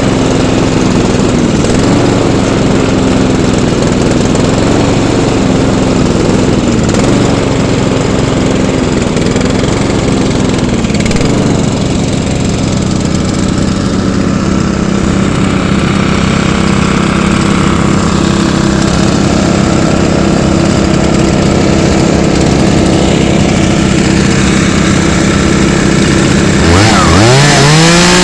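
Small petrol engines running steadily together, one engine's note dipping briefly about every two seconds before settling lower. Near the end an engine revs up sharply.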